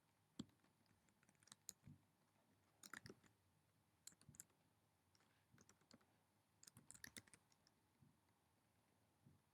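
Faint computer keyboard typing: short clusters of keystrokes, several groups separated by pauses.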